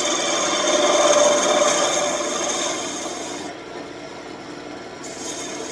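A turning tool scraping and rasping against a spinning birch blank on a wood lathe, easing off briefly a little past halfway and then biting in again near the end.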